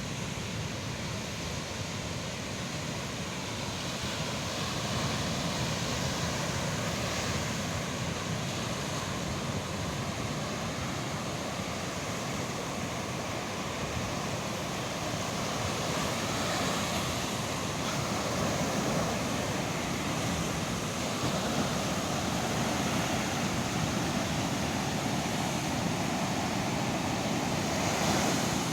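Ocean surf washing onto a beach, a continuous rushing noise that swells and eases, with wind on the microphone.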